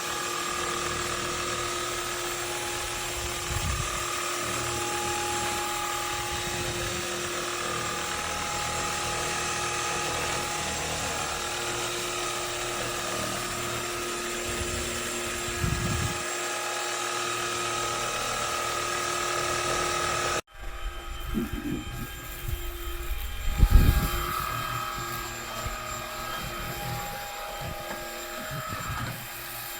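Cordless stick vacuum cleaner running, a steady motor whine with several held tones over a hiss. It cuts off abruptly about two-thirds in, and a rougher, uneven run with a few low thumps follows.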